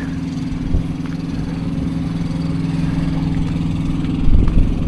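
Truck engine idling with a steady hum, and a low thump a little after four seconds in.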